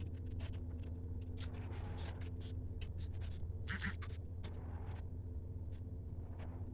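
Paper being handled in craft work: scattered light rustles and scratches, a little louder about four seconds in, over a steady low hum.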